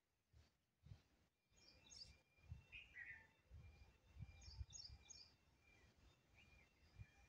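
Faint outdoor ambience: small birds chirping in short high trills, a cluster of them in the middle, over a few irregular low rumbles.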